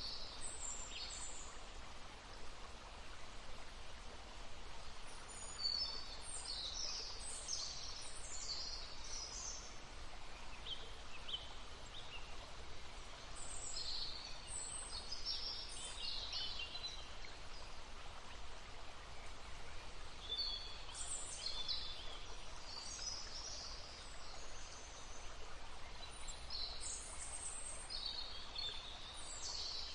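Songbirds singing in short, high-pitched phrases that come in bursts every few seconds, over the steady babble of a stream.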